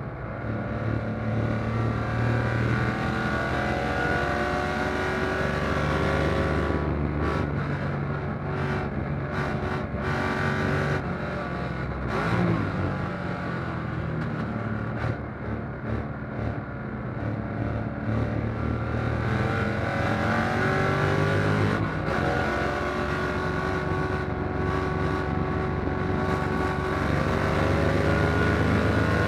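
1957 Corvette's fuel-injected V8 racing, heard from inside the cockpit. The revs climb in three long pulls, with the engine eased off between them.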